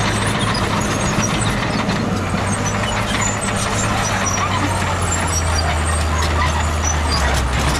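Heavy earthmoving machine's diesel engine running steadily. Its engine note drops lower about five seconds in and rises back near the end.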